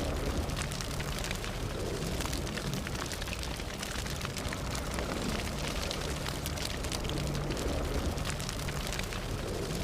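Fire burning steadily: a continuous low rush of flames with frequent small, sharp crackles and pops.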